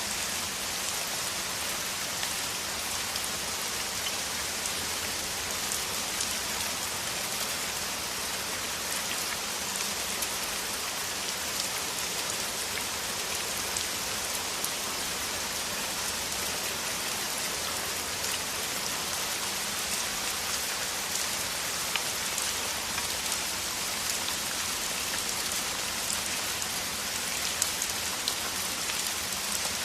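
Heavy rain falling steadily in a downpour: a dense, even hiss thick with fine drop ticks, a few drops landing a little louder now and then.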